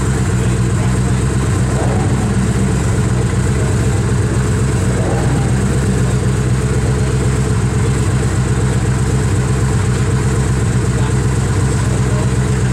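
Koenigsegg One:1's twin-turbo V8 idling steadily, with no revs.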